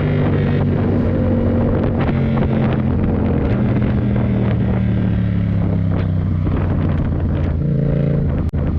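Yamaha MT-07's parallel-twin engine running at a steady road speed, its pitch holding and then shifting a few times, under heavy wind noise on the microphone. A brief sharp cut in the sound near the end.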